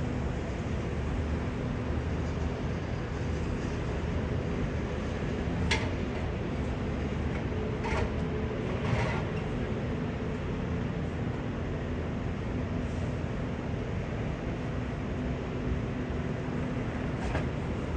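A steady low mechanical rumble, like a running vehicle, with faint hum tones and a few brief sharp clicks about six, eight, nine and seventeen seconds in.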